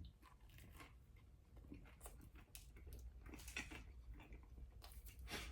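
Faint chewing of a meatball sub sandwich: soft, irregular mouth clicks and smacks.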